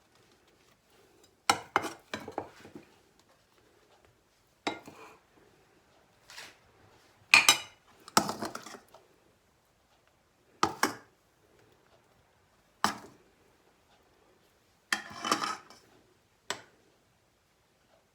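Kitchen utensils clinking and knocking against dishes: about a dozen separate short strikes, some with a brief rattle or scrape after them, spaced a second or two apart.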